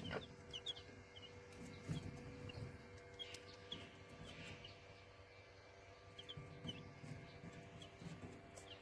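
Eight-day-old chicks peeping in short, high chirps that come in scattered runs, with soft, low clucking from the mother hen beneath them. Faint overall.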